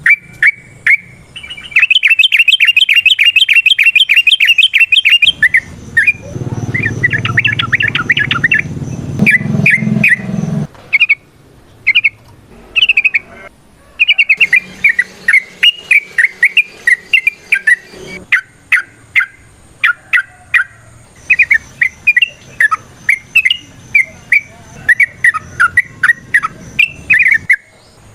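Yellow-vented bulbul (trucukan) singing: a fast run of chattering notes, then a long series of short, bubbling phrases repeated several times a second. A low hum sits under the song for a few seconds early on.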